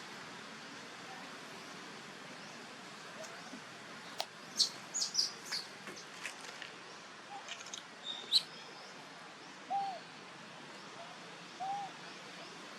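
Animal calls: a cluster of short, sharp, high-pitched chirps and squeaks, then two short hoot-like calls about two seconds apart, over a steady outdoor hiss.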